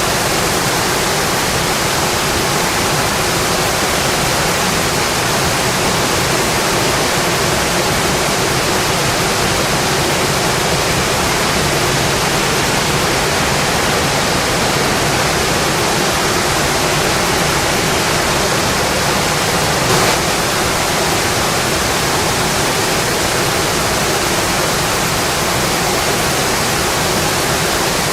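Steady heavy rainfall, a dense even hiss with no let-up, and one brief tap about two-thirds of the way through.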